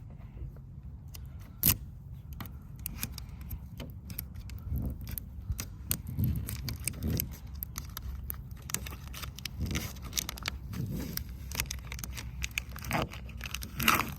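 Scattered clicks, taps and scrapes of small objects being handled, with one sharp knock about two seconds in, over a steady low rumble.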